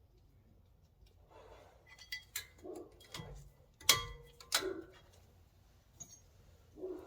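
A handful of sharp metallic clinks and taps, some ringing briefly, as metal brake parts and tools are handled, with soft rustling between them. The loudest clink comes about four seconds in.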